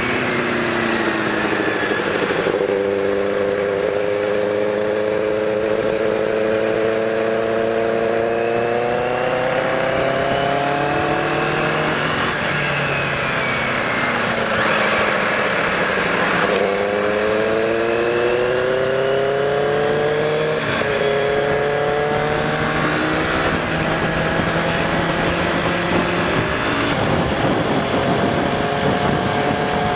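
Sport motorcycle engine running hard under acceleration, its pitch climbing through the revs. It falls away about twelve seconds in, rises again with a quick gear change around twenty-one seconds, then settles to a steadier cruise, over a constant rush of wind and road noise.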